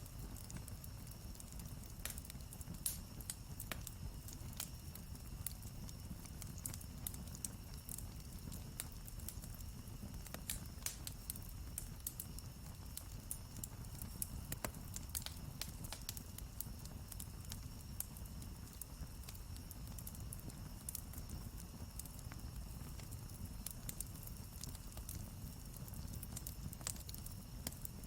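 Wood campfire crackling, with irregular sharp pops and snaps over a steady low rumble of the burning fire.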